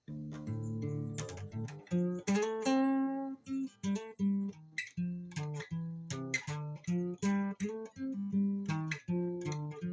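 Acoustic guitar in open D tuning played solo, a freestyle blues riff of plucked notes and strums mixing the pentatonic and blues scales, several notes a second.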